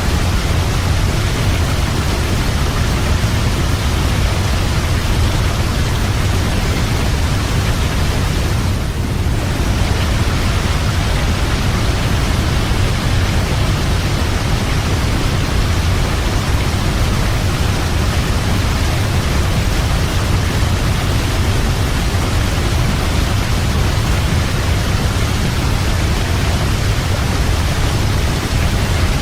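Waterfall rushing in a steady, full roar of falling water, heaviest in the low rumble, with a brief thinning of the hiss about nine seconds in.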